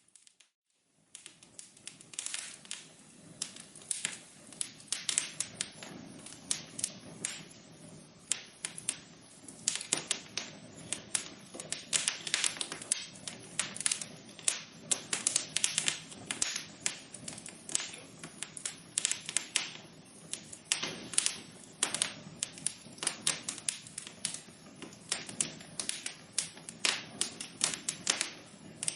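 Wood fire crackling in a fireplace: a dense, irregular run of sharp pops and snaps over a soft hiss. It starts after a brief silent gap about a second in, fading back up.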